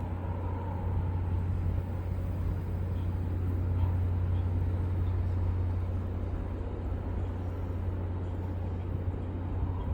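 A steady low rumble, like a motor running, with an even noise above it.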